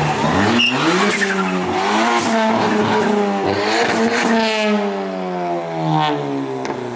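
A performance car's engine revving up in several rising pulls, then its pitch falling steadily over the last few seconds, with a few sharp cracks along the way.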